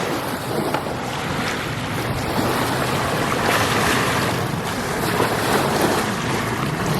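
Steady wind buffeting the microphone, with lake waves washing on the shore.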